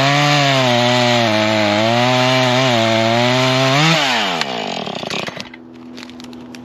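Husqvarna 440 two-stroke chainsaw at full throttle cutting into a wet, rotten old stump, its pitch wavering with the load. About four seconds in the throttle is released, and the engine winds down to a steady idle.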